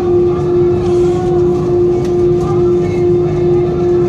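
Steady cabin drone of an Airbus A320-214 taxiing, with its CFM engines turning at low power: a constant hum with one strong held tone over a rumble.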